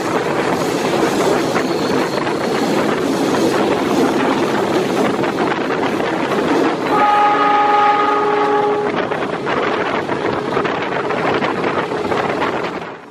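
Passenger train running along the line, heard from beside the carriage: a steady rumble of wheels on rails. About seven seconds in, the locomotive ahead sounds its horn in one held blast of about two seconds.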